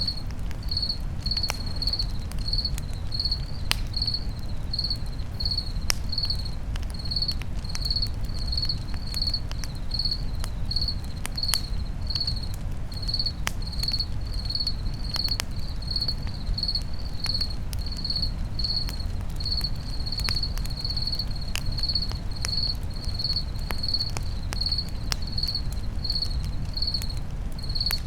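Crickets chirping steadily, about two chirps a second, over a crackling campfire with scattered sharp pops and a low steady rumble.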